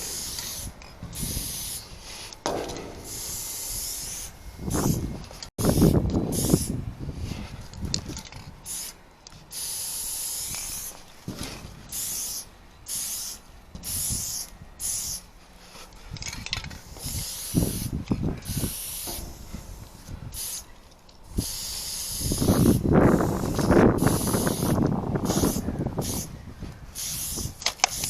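Aerosol spray paint can hissing in many short, stop-start bursts as paint is sprayed, with a few louder low rumbles, one about six seconds in and a longer one near the end.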